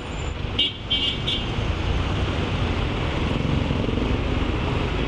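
Steady road and engine noise of riding a scooter through heavy city traffic, with three short high beeps about a second in.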